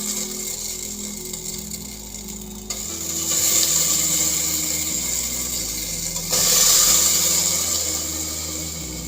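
A steady rushing hiss that swells about three seconds in and again, loudest, about six seconds in, over slow sustained background music notes.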